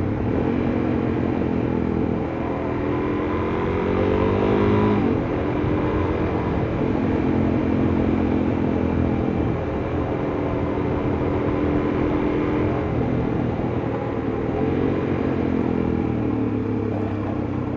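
Suzuki DR-Z400S's single-cylinder four-stroke engine running under way downhill, its pitch climbing for a couple of seconds and then dropping sharply about five seconds in, as at a gear change, then holding fairly steady with further shifts later, over steady road and wind noise.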